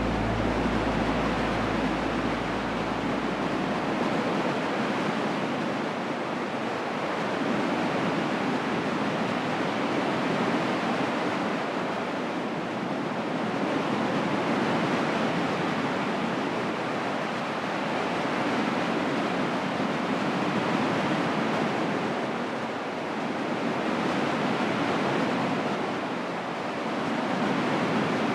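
Small waterfall cascading, a steady rush of falling water that swells and eases gently every few seconds. A low rumble underneath fades away about four seconds in.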